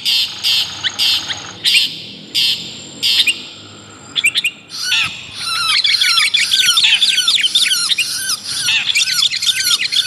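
Bird-lure recording of a long-tailed shrike mixed with a sooty-headed bulbul: harsh, scratchy calls about twice a second for the first three seconds, a short lull, then from about halfway a fast, unbroken run of chattering, sweeping chirps.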